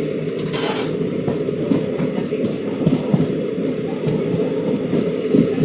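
Pune–Bhubaneswar superfast express train running past, a steady loud rumble from its wheels on the track with irregular clicks and clatters.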